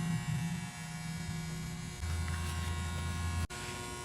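Steady low electrical hum that drops to a lower, louder tone about two seconds in and breaks off abruptly shortly before the end.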